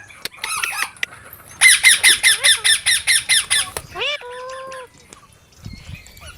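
Parrot squawking: a rapid run of harsh, shrill calls, about five a second for roughly two seconds, followed by one short held whistle-like note.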